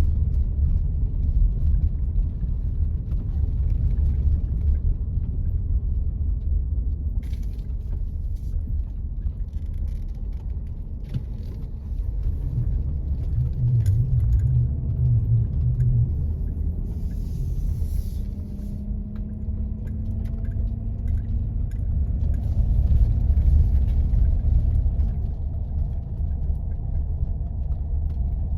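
A 4x4 driving on snow-covered roads: a steady low rumble of engine and tyres. Scattered light clicks and rattles come through the middle, and a faint tone rises slightly near the end.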